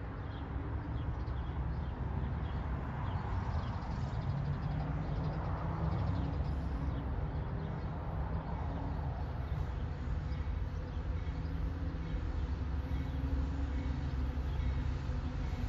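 A train rolling past with a steady low rumble, rain falling.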